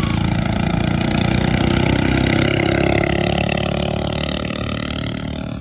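Mini bike engine running hard at high revs, then fading over the last couple of seconds as it pulls away.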